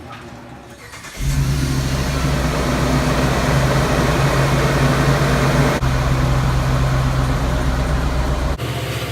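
A car engine running loud and steady, coming in suddenly about a second in.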